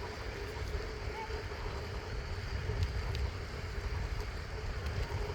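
Wind rumbling on the microphone of a moving bicycle. A faint steady hum runs underneath, with a few faint ticks.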